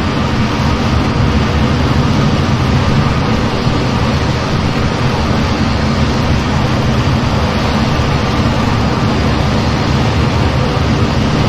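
Steady in-flight noise of an F-15 jet, engine and airflow rush with a few faint steady hums underneath, unchanging throughout.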